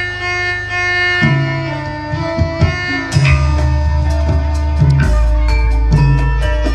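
Javanese gamelan-style instrumental music. Struck metal tones ring out over hand-drum strokes, and a deep bass note comes in about three seconds in.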